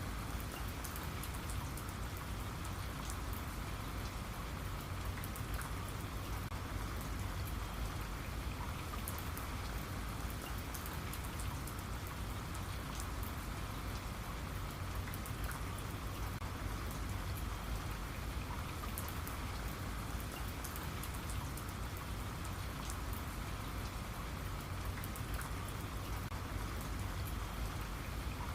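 Steady rainfall, with individual drops pattering on a surface.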